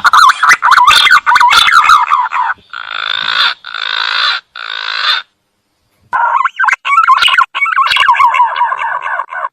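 Green pigeon (punai) calling: a run of wavering, warbling whistles, then three hoarse croaking notes, a silent pause of about a second, and more wavering whistles.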